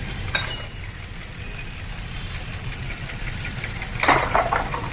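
Four-cylinder car engine idling roughly with a heavy misfire, its loosened engine cover rattling in an uneven clatter from the shaking; the misfire is traced to cylinders 3 and 4, whose ignition coils are not working. A louder clank about four seconds in.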